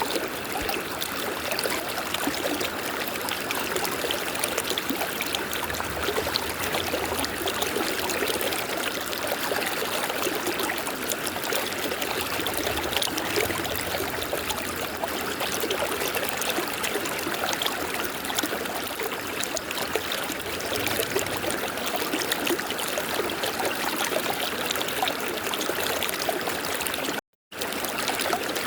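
River water flowing and rushing over rocks in a steady, even rush, with no birds or other sounds standing out. The sound cuts out completely for a moment near the end.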